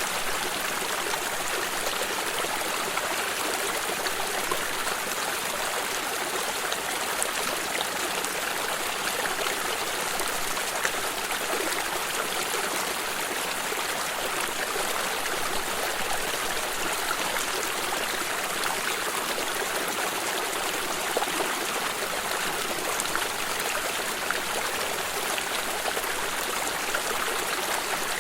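A stream of water running over rocks, a steady rushing with small splashes and trickles.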